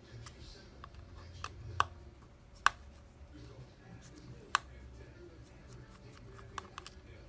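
Scattered sharp clicks and taps of small repair tools and parts being handled during an iPhone 7 Plus screen repair, three of them much louder than the rest, over a faint low hum.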